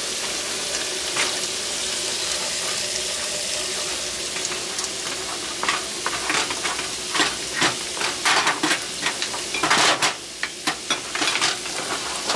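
Food sizzling in a hot frying pan, a steady hiss; about halfway through, a utensil starts scraping and clacking against the pan as the food is stirred, in a quick run of knocks.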